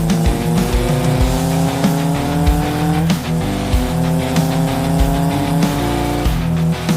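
Music with a steady beat, over a motorcycle engine accelerating with its pitch rising, dropping at a gear change about three seconds in and again near the end.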